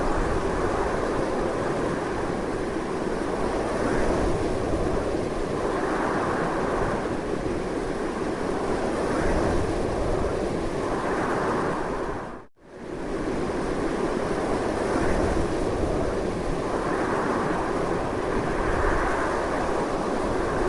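Strong, continuous wind: a steady rushing noise with slow swells in strength. It cuts out for a split second about halfway through, then carries on.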